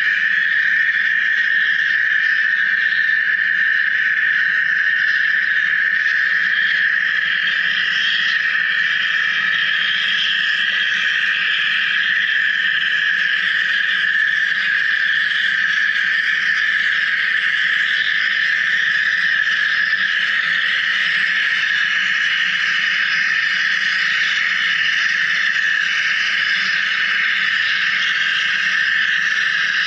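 Wire EDM machine cutting: a steady, unbroken high buzzing hiss that does not change.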